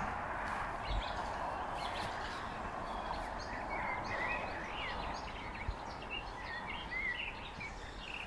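Birds chirping and twittering in short high calls that come more often toward the end, over a steady outdoor background hiss.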